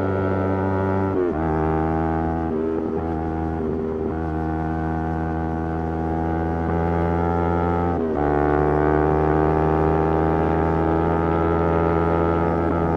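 Motorcycle engine running under load at steady revs. The engine note changes pitch in steps, with short breaks about a second in, around two and a half and four seconds, and near eight seconds, as gears change.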